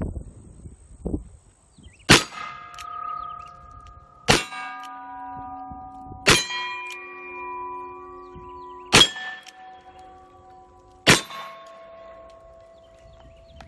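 Five shots from an Uberti Lightning .38 Special revolver, about two seconds apart. Each is followed by a steel plate target ringing on for a second or two as it is hit.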